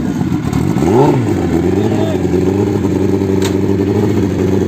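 Turbocharged Suzuki Hayabusa drag bike's engine being blipped once on the throttle about a second in, then running steadily at an even pitch.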